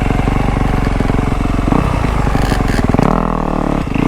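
Off-road dirt bike engine running at low speed on the throttle, opened up to a louder rev about three seconds in with a short let-off just before the end.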